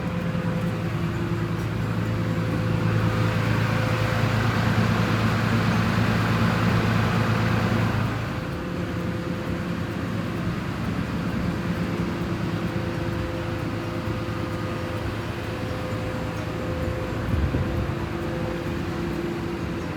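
An engine running steadily with an even hum, dropping a little in level about eight seconds in.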